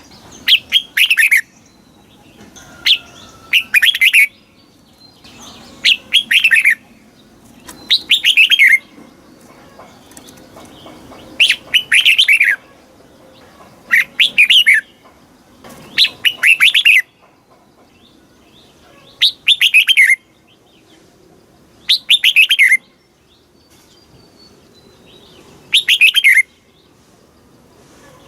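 Red-whiskered bulbul singing: about ten short, loud phrases of quick falling whistled notes, each about a second long, repeated every two to three seconds with quiet gaps between.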